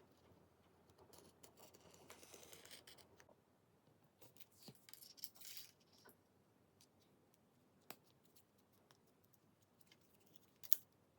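Small hand-work sounds on a smartphone under repair: scratchy scraping for the first few seconds, then brief rustles and a few sharp light clicks, the loudest one near the end.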